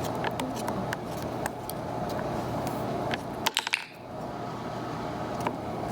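Light clicks and taps of a small object being handled on a tabletop by a parrot, with a quick cluster of sharp clicks about three and a half seconds in, over a steady hum of room noise.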